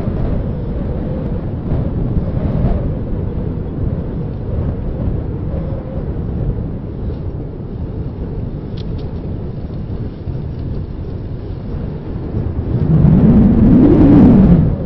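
Wind buffeting a handheld recorder's microphone while riding a bicycle: a steady low rumble that swells louder for a couple of seconds near the end and then cuts off sharply.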